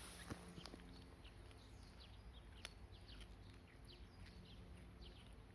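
Faint chirping of small birds, many short downward chirps repeating throughout, with a couple of faint clicks.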